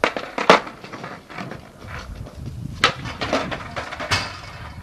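Skateboard wheels rolling on a hard surface with four sharp wooden clacks of the board, at the start, about half a second in, near three seconds and about four seconds in: tail pops and landings of skateboard tricks.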